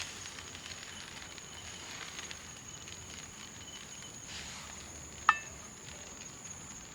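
Rice cooking in a pan over a campfire: faint sizzling and crackling under a steady high hiss. One sharp clink about five seconds in.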